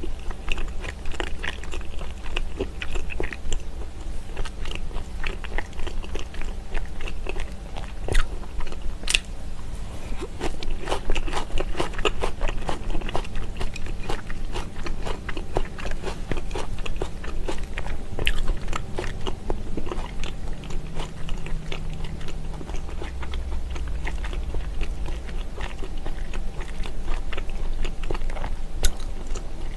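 Close-miked chewing of a mouthful of raw sliced onion: wet crunching made of many small crisp clicks, thickest about ten to fourteen seconds in, with a few sharper single clicks along the way.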